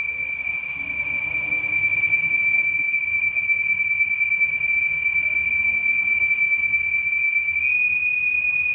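Steady high-pitched whistle from a 2015 Audi A8 L engine, one pure tone that steps up slightly in pitch near the end. It is the sign of a failed PCV oil separator.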